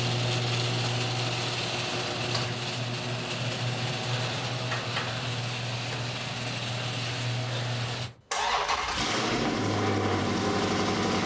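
A 2016 Dodge Charger Scat Pack's 392 (6.4 L) HEMI V8 running steadily through a full Corsa exhaust system, a deep even drone. It cuts out abruptly about eight seconds in and comes back at once, now with a brief rise in pitch.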